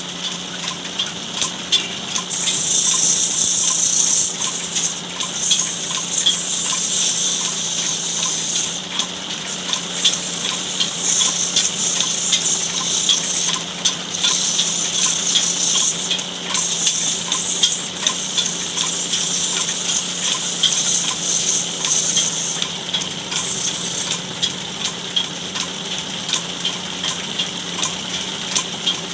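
A motor-driven wood lathe running with a steady hum and a faint regular tick about twice a second, while a chisel cuts the spinning charpai leg in repeated stretches of harsh hiss a few seconds long.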